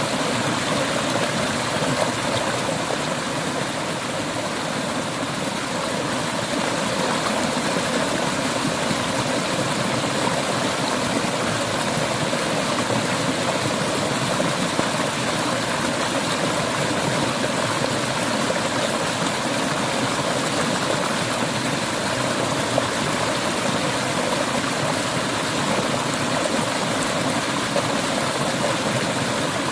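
Clear river water flowing and splashing over stones, a steady even rush.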